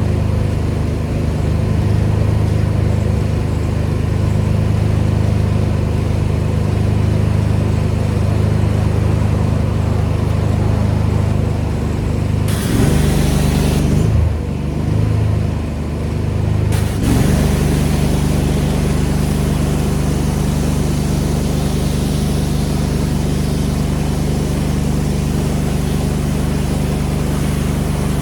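Pressure washer engine running steadily with a spray hiss over it. About halfway through a hiss surges and the engine note wavers and dips for a few seconds, then settles back to a steady run with a louder hiss.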